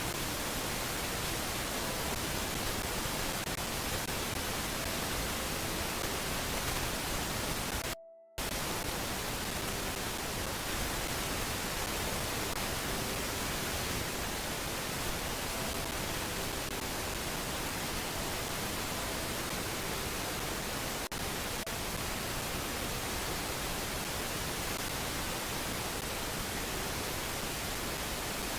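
Steady hiss from a nest camera's microphone, cutting out briefly about eight seconds in.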